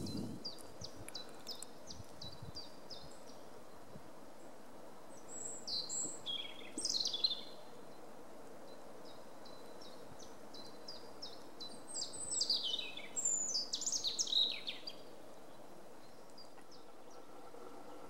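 Wild birds calling: a quick run of short high notes at the start, then two bouts of louder calls that fall in pitch, about six and about thirteen seconds in, over a faint steady background hiss.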